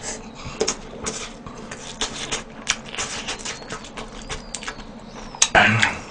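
Close-miked mouth sounds of a mouthful of noodles being eaten: many quick wet smacks and clicks of chewing, with a louder breathy rush near the end.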